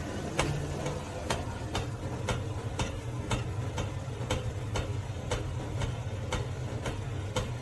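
Sharp ticks repeating evenly about twice a second over a low steady hum.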